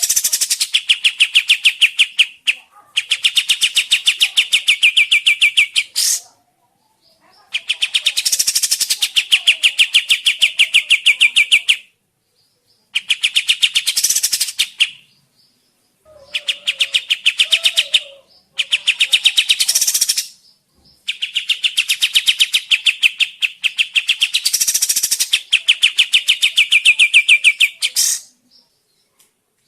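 Kapas tembak bird singing in long, very fast chattering trills, about seven bouts of a few seconds each separated by short pauses.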